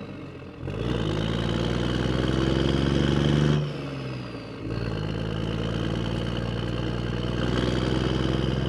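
Vehicle engine sound revving up, its pitch climbing over the first few seconds. It drops away for about a second, then runs on steadily.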